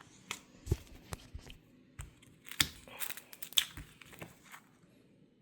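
Hands handling paper or a plastic sheet at close range: scattered light crinkling, rustling and small clicks, with one soft knock about a second in.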